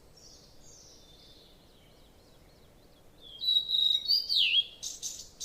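A songbird singing: faint high chirps at first, then louder whistled notes in the second half that slide up and down, one swooping sharply downward.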